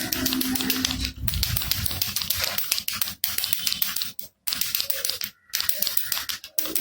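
A baby rattle being shaken, a dense rapid clicking of the pieces inside, broken by a few short pauses.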